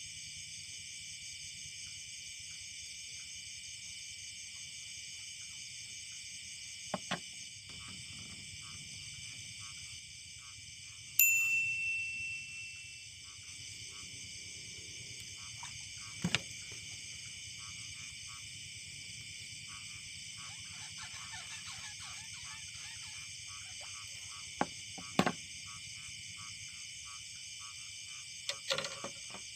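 A steady chorus of insects shrilling outdoors. About 11 s in, a small bell rings once and fades over a couple of seconds, and a few light knocks come at intervals.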